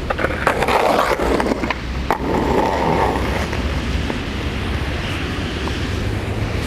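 Skateboard wheels rolling on wet pavement, with a few sharp clacks of the board within the first second and another about two seconds in.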